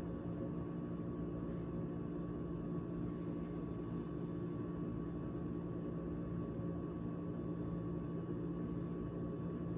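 GE GTH18XCTZRBB top-freezer refrigerator running after its defrost heat cycle: a steady, even hum with a few constant tones.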